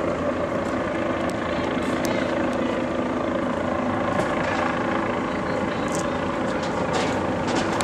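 Steady mechanical drone of an engine, even in level, with a few faint level tones running through it.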